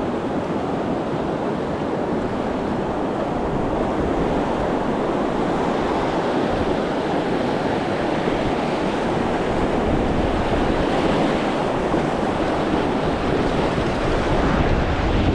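Steady rush of river water over rapids, with wind buffeting the microphone.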